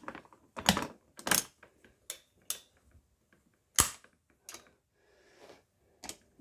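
Sharp metallic clicks and knocks of hand tools and locking grips being handled and clamped on a chainsaw's drive mechanism, about seven separate knocks with pauses between them, the loudest nearly four seconds in.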